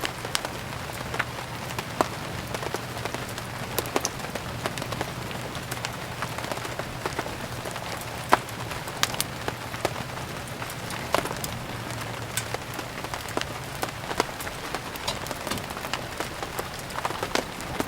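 Steady rain mixed with a burning wood fire: an even hiss of rain with frequent, irregular sharp crackles and pops.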